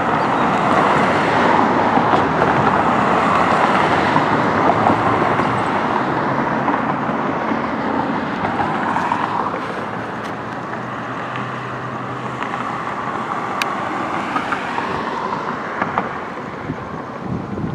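Road traffic noise with a motor vehicle running past, loudest in the first half and quieter from about ten seconds in.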